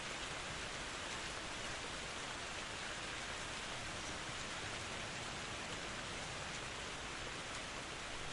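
Steady rain falling, an even hiss of drops with a few faint individual patters.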